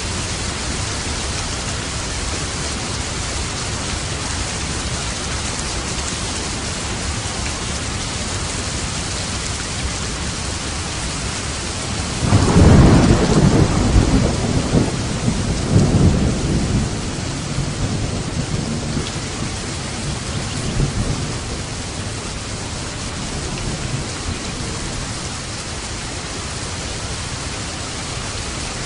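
Steady rain, with a roll of thunder about halfway through that rumbles for several seconds, swells a second time, then fades back into the rain.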